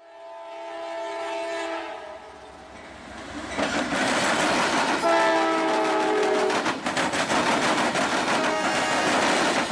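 Norfolk Southern diesel freight locomotives passing close by: two long blasts of the multi-note air horn, the second dropping slightly in pitch as the engines go by. Then the loud rumble of the train with the steady clatter of wheels crossing the rail diamond.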